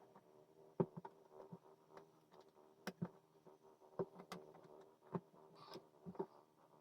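Light, irregular clicks and taps with a little scraping: puzzle pieces being handled and set down, about a dozen sharp ticks at uneven intervals. A faint steady hum runs underneath.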